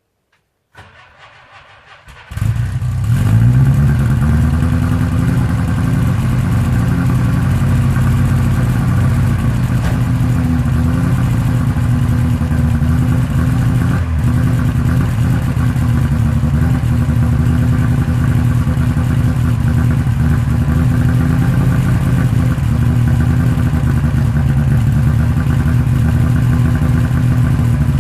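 A 1960 Moskvitsh 407's four-cylinder engine on a cold start after three months standing at −10 °C: a second or so of cranking, then it catches, revs up briefly and settles into a steady fast idle.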